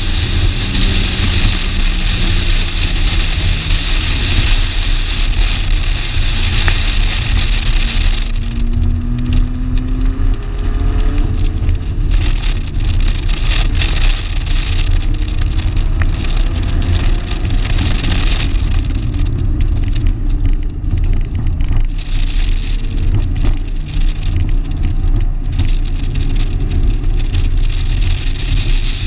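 Turbocharged 2.2-litre four-cylinder engine of a 1987 Shelby GLHS running hard on a race track. Its pitch climbs through the revs and drops back at the shifts, several times over, over a heavy low rumble.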